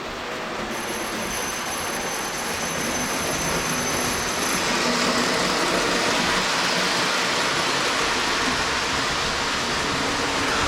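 Lionel 736 Berkshire O-gauge toy train running on three-rail track: a steady rumble of motor, gears and wheels that grows gradually louder.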